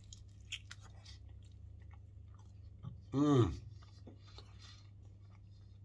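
A man biting into and chewing a chicken shawarma wrap, with small crackling mouth sounds throughout. About three seconds in there is a brief hum from him that falls in pitch.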